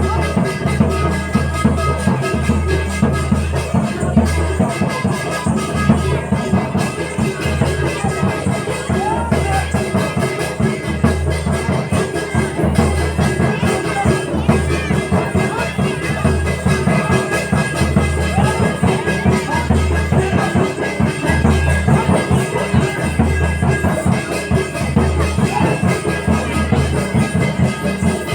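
Folk percussion music of the kind that accompanies Gavri: a drum beaten in a steady, dense rhythm with ringing metallic strokes over it.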